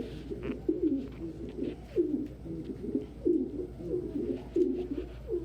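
Domestic pigeons cooing, a steady run of repeated low coos.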